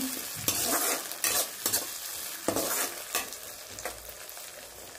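Onions and ginger-garlic paste sizzling in hot oil in a kadhai, while a metal slotted spoon scrapes through them in quick stirring strokes. The stirring stops about three seconds in and the quieter frying sizzle goes on alone.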